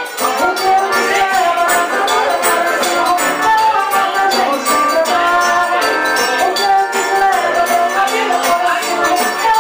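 Live forró band playing: accordion and guitar over the zabumba drum, with shaken hand percussion keeping a steady beat.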